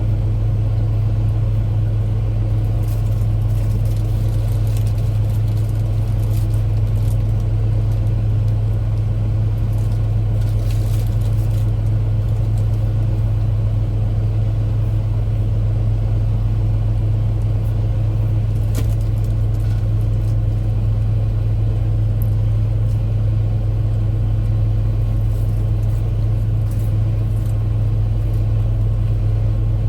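Steady low hum of a car engine idling, heard from inside the cabin, with a few faint light clicks over it.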